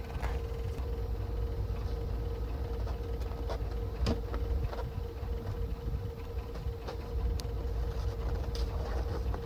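A vehicle engine running at idle: a low, steady rumble with a thin steady whine over it and a few faint ticks.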